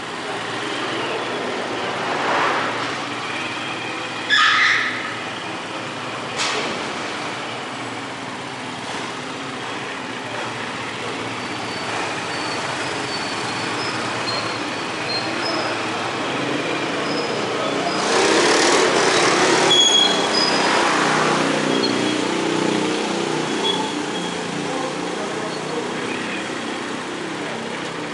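Road traffic noise with a motor vehicle engine running steadily, and a louder rush of noise about two-thirds of the way in.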